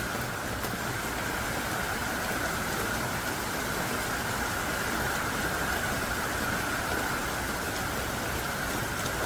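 Heavy rain falling steadily in a dense, even downpour, with a few scattered sharper drop ticks.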